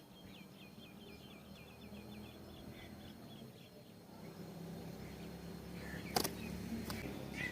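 A small bird gives a rapid trill of short high chirps for about two seconds, then a few scattered chirps. A low steady rumble sits underneath, and a sharp click sounds near the end, with a fainter one just after.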